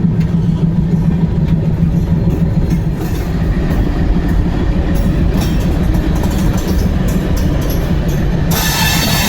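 Indian Railways Amrit Bharat Express train running with a steady low hum and rumble; about eight and a half seconds in, a high, ringing wheel squeal starts suddenly.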